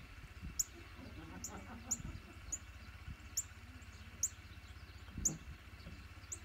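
A small bird giving short, high chip calls again and again, about two a second, over a faint steady low hum, with a soft thump about five seconds in.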